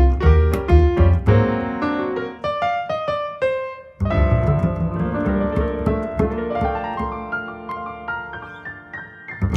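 Piano and double bass duo playing jazz: a busy passage over low bass notes, a brief drop, then a loud chord about four seconds in that rings and thins out into held notes, with a sharp accent at the very end.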